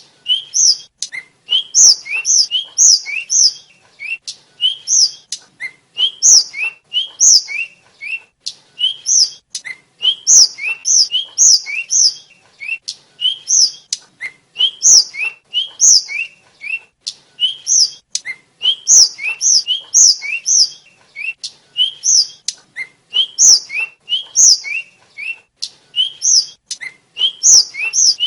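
Tledekan flycatcher singing: quick phrases of short rising whistles climbing to high, clear notes, repeated about once a second with barely a pause. Sharp clicks fall between many of the phrases.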